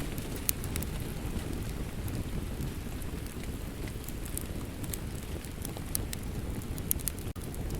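Steady rain mixed with the sharp, irregular crackles of a wood fire, with a momentary dropout near the end.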